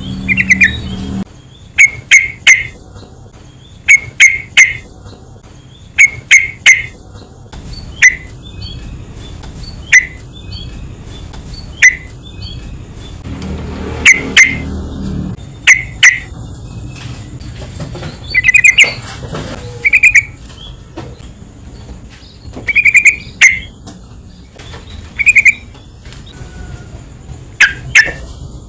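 Yellow-vented bulbul (trucukan) calling: short, rapid clusters of two to four bubbly notes about every two seconds, with a few longer trilled phrases in the second half.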